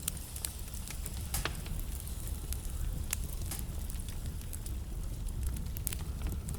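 Wood fire crackling in a fireplace: scattered sharp pops and snaps at irregular intervals over a steady low rumble of the burning.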